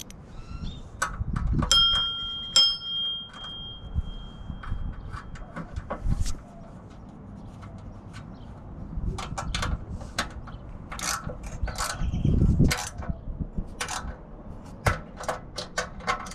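Metal hand tools and hardware clicking and clinking while loose fuel-tank bolts on a mini bike are worked on. A ringing metallic ding comes about two seconds in, and a quicker run of small clicks follows later.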